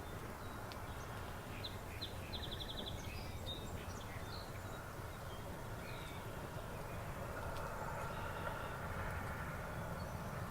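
Outdoor ambience in early spring: a steady low rumble underneath, with several short bird calls a couple of seconds in, one of them a quick trill.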